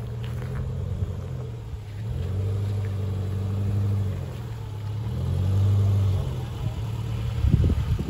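Subaru Forester's flat-four engine running under light throttle as it crawls over a rutted dirt trail, swelling louder twice as the driver gives it gas. Near the end, as it comes close, there is a short stretch of low rumbling knocks.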